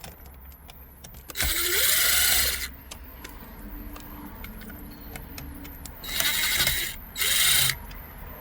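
Cordless power screwdriver run in three short bursts, backing out the screws that hold the car radio and heater-control panel. The first burst is about a second long, the second a little shorter, and the last one is brief.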